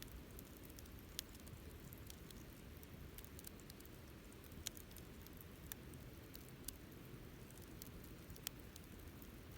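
Wood campfire burning faintly, with a steady low rumble and a handful of sharp crackling pops from the burning wood.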